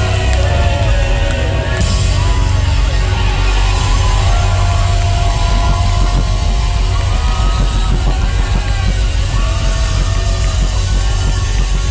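Rock band playing live in concert: loud, with a heavy, booming low end and melodic lines sliding and holding over it.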